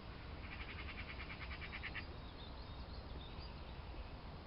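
A bird's fast, even trill of rapidly repeated high notes, lasting about a second and a half from about half a second in, over a steady low outdoor rumble.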